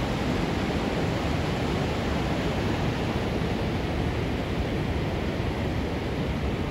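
Rushing water of Sandstone Falls on the New River: a steady, unbroken rush of falling water.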